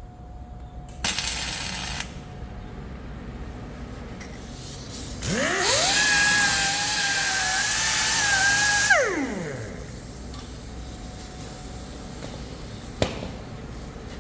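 Handheld electric power tool spinning up with a quickly rising whine, running steadily for about three and a half seconds with a harsh hiss over the whine, then winding down. Before it there is a brief burst of noise, and near the end a single sharp knock.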